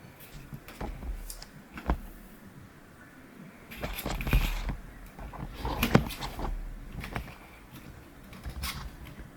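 Hard plastic parts being handled and fitted together, with a few sharp clicks and knocks, the loudest about two, four and six seconds in, and short rustling between them.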